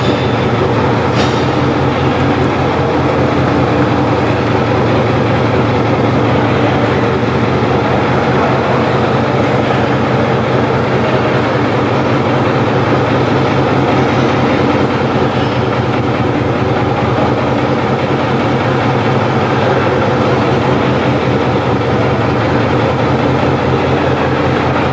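Marshall tractor engine running steadily with a fast, even beat.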